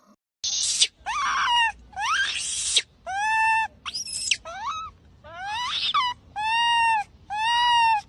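A cat meowing over and over: about nine high meows, each half a second to a second long, several of them sliding upward in pitch.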